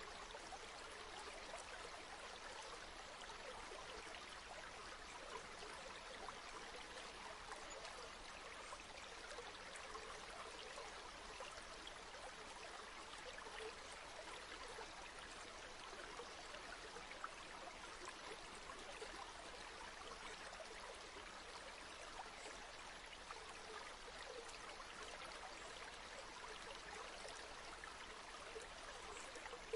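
A river flowing: a faint, steady, even rush of water with fine trickling, unchanging throughout.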